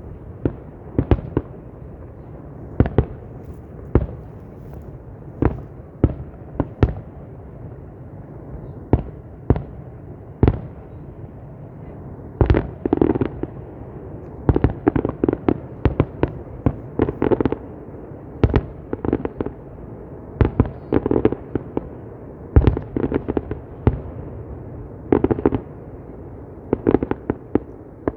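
Fireworks display: shells bursting in a string of irregular sharp bangs, thickening about halfway through into quick clusters of crackling reports, over a steady rush of background noise.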